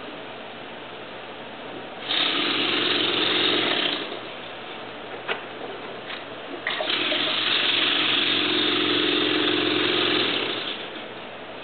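Gas torch heating PVC pipe, opened up in two loud jet-like blasts of rushing flame, one about two seconds long and one about four seconds long, over a steady low hiss.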